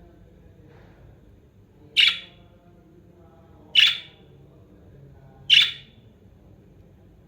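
Pet budgerigar giving three loud, harsh squawks, evenly spaced about two seconds apart.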